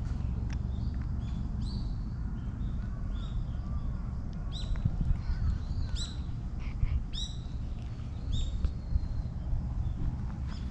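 Birds calling in the park trees: short, sharp, slightly falling calls repeated every second or so, over a steady low rumble.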